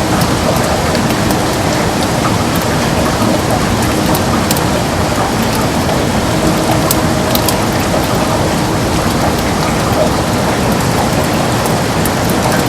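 Heavy rain falling steadily on a window, an even hiss with scattered sharp drop ticks.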